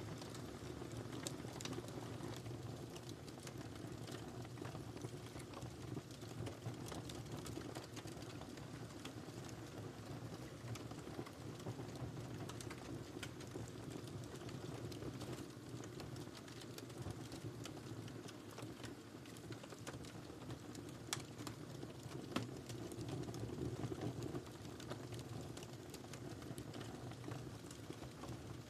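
Wood fire crackling in a fireplace: a steady low rumble with many small irregular pops and ticks, and a few sharper pops about three-quarters of the way through.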